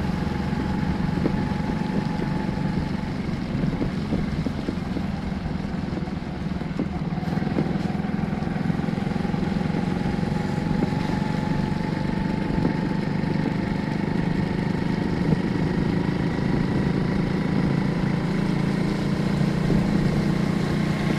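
Steady vehicle running noise: a constant low hum with faint tones that drift slowly in pitch.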